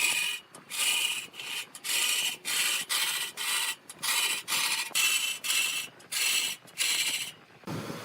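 Rhythmic rasping strokes of an abrasive or hand tool worked back and forth on wood, about two strokes a second. The strokes stop near the end, where a steady low machine hum takes over.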